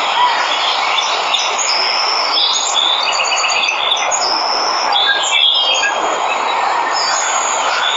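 Steady rushing of a waterfall, with several birds chirping and calling over it, including a quick trill of repeated notes about three seconds in.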